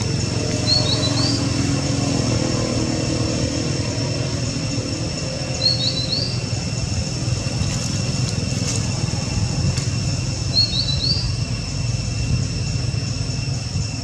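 A bird chirping three times, about five seconds apart, each call a quick rising double note, over a steady high-pitched drone and a low steady rumble.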